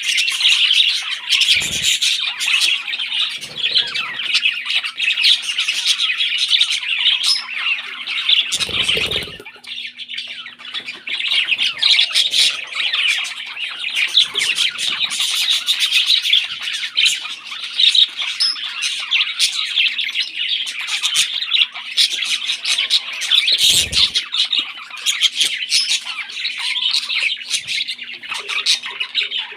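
Parrots squawking and chattering rapidly and without pause, the begging calls of chicks being fed, with a few dull thumps and a faint steady hum underneath.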